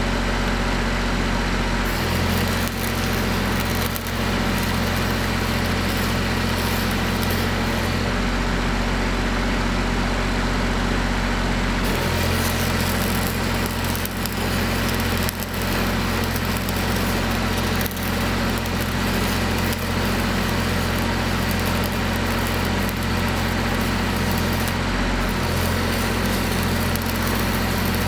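Engine running steadily throughout, its note and the hiss above it shifting several times as load comes on and off.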